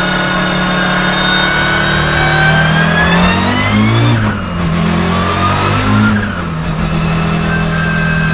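Turbocharged 2.2-litre five-cylinder engine of a 500 hp Audi 200 Turbo Quattro race car under load, its pitch and a high whine climbing for about three seconds. Then the engine note falls and rises several times as the revs change, and it settles into a steady drone for the last couple of seconds.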